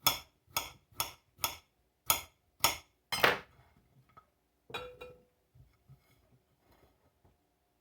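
Knife slicing peeled pickling cucumbers into thin discs on a cutting board: sharp, even chops about two a second for the first three seconds. A single clink with a short ring follows near the middle, then only faint small knocks.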